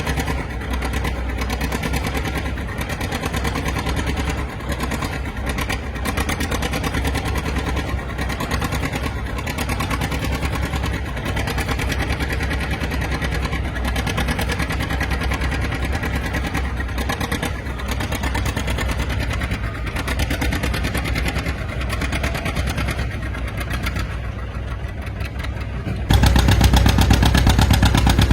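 Antique farm tractor engine running with a steady rapid exhaust pulse, then suddenly louder near the end.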